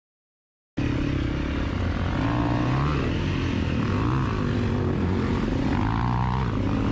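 Dirt bike engines running, several pitches overlapping and wavering slightly, cutting in abruptly from silence about a second in.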